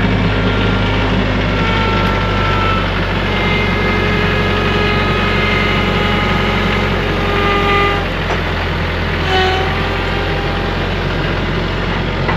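Tractor engine running at a steady speed while moving a load, with short high-pitched squeals sounding over it now and then.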